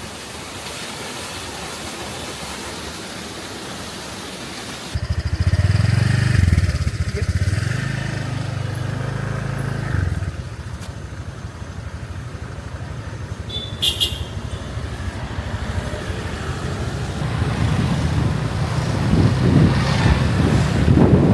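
An even rushing noise. About five seconds in, it switches suddenly to a loud low rumble with wind buffeting the microphone, which grows stronger near the end.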